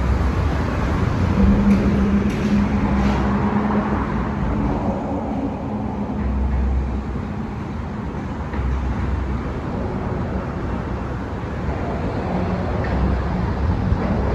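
Metro-North commuter train running, a steady rumble with a low hum that is strongest in the first few seconds.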